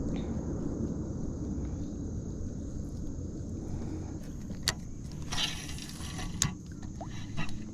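Steady low rumble of wind on the microphone. In the second half come a few sharp clicks and a brief rattling rustle of gear being handled.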